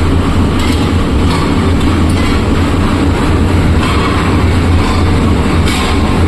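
Aluminium melting furnace in operation while scrap is charged: a loud, steady low roar with brief brighter rattling surges now and then.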